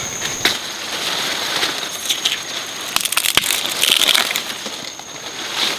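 Crunching and crackling of dry plant material, with many irregular sharp snaps and clicks, densest about three to four seconds in.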